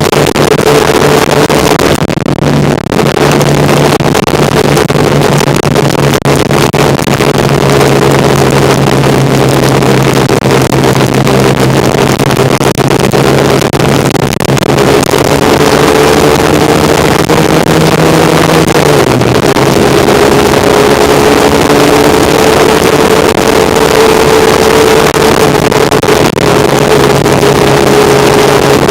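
1975 Kawasaki KZ400's parallel-twin engine running while the bike is ridden. The engine note holds steady, climbs for a few seconds past the middle, drops suddenly, then slowly climbs again.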